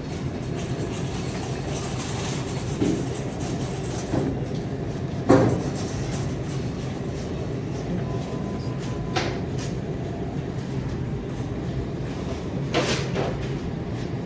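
Supermarket background noise: a steady low hum with a few sharp knocks and clatters, the loudest about five seconds in.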